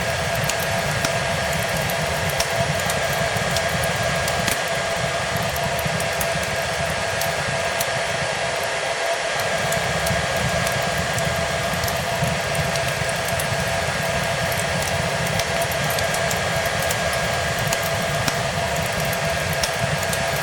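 A hair dryer running steadily, with a constant whine over its airflow hiss, mixed with the scattered crackles and pops of a wood fire.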